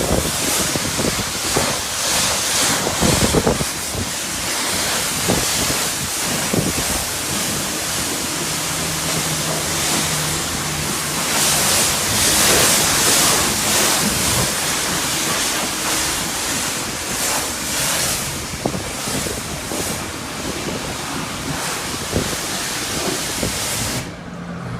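High-pressure wash wand at a self-service car wash spraying onto a car: a steady loud hiss of water jet and spray that swells and eases as the wand moves. The spray stops abruptly near the end.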